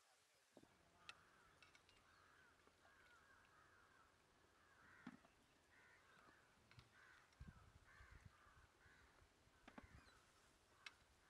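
Faint birds calling: harsh calls repeating over and over, with a few light clicks in between.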